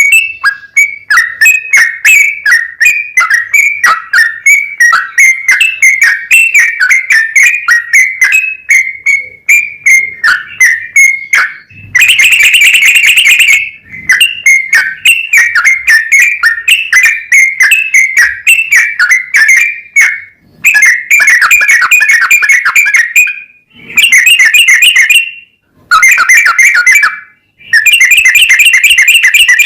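Yellow-vented bulbul (trucukan) singing a long, rapid song of quick whistled notes repeated over and over. About twelve seconds in and again several times near the end, it breaks into dense, very loud stretches of chattering song a second or two long.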